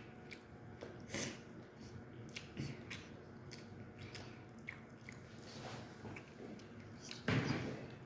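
A person chewing and biting chicken close to the microphone, with scattered wet smacks and clicks. A louder bite comes about a second in, and a longer, louder noisy burst about seven seconds in.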